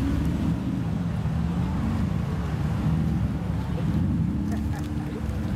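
Engines and exhausts of lowered cars rolling slowly past at low revs: a steady low rumble that rises and falls slightly in pitch.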